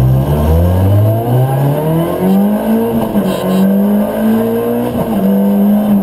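Ford Fiesta R2 rally car's 1.6-litre four-cylinder engine heard from inside the cabin, accelerating hard. The pitch climbs for about two seconds, then holds high at near-constant revs, with a brief dip about five seconds in.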